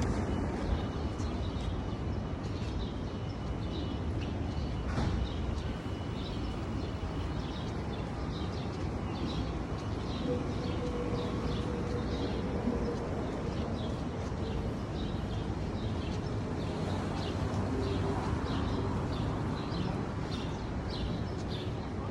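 Birds chirping: short, high chirps repeat about once or twice a second over a steady low background rumble.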